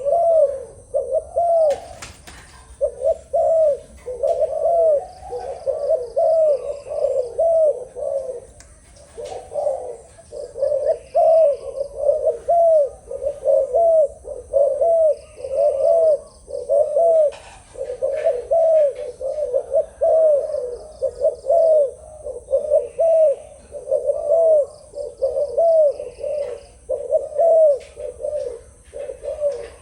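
Zebra dove cooing: a long run of short, arched coo notes, about two a second, with brief breaks, and faint high chirps from other birds now and then.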